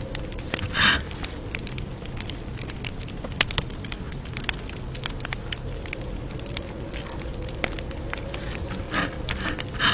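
Campfire crackling: a steady low rumble of burning wood with dense, scattered small snaps and a few louder pops, about a second in and near the end.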